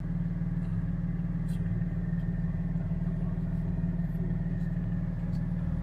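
2021 Porsche 718 Spyder's 4.0-litre flat-six idling steadily at about 1,000 rpm, heard from inside the cabin.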